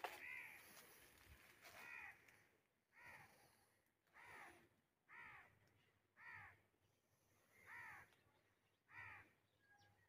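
A bird calling repeatedly: eight short, faint calls spaced about a second apart.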